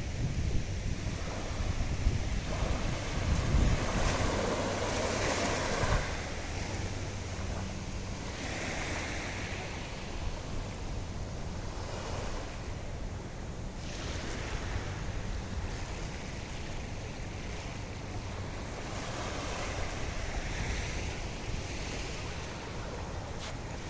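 Surf washing on a beach in slow swells every few seconds, with wind buffeting the microphone, strongest in the first six seconds.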